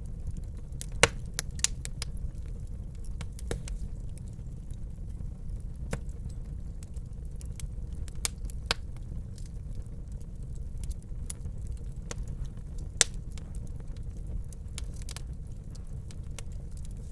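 Fire burning in a fireplace, with a steady low rumble and irregular crackles and pops; the sharpest pops come about a second in and again past the middle.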